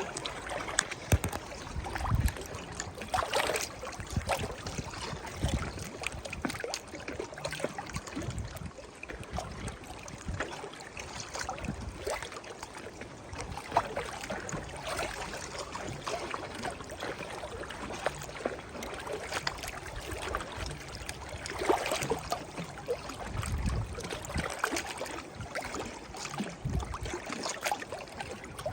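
Water lapping and splashing irregularly, as small waves or river current at the edge, with occasional low thuds.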